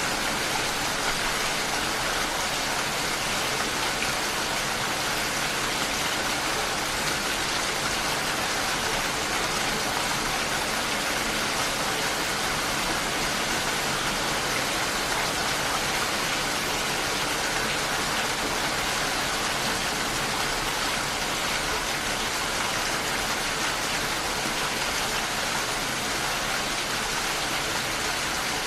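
Steady rain falling, an even hiss that holds the same level throughout, with no thunder or separate drops standing out.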